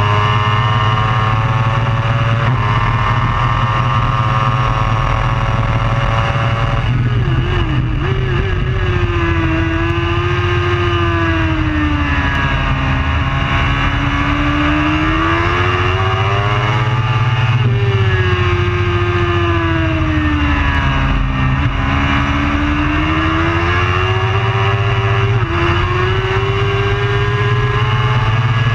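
Superbike engine running at race pace: the revs hold steady for the first several seconds, then drop and rise again and again as the rider works the throttle, over a steady low rumble.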